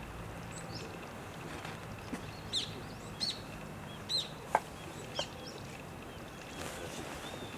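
A bird giving short, sharp, high calls, a handful of them about a second apart, with one louder, sharper call in the middle. A faint steady low hum lies underneath.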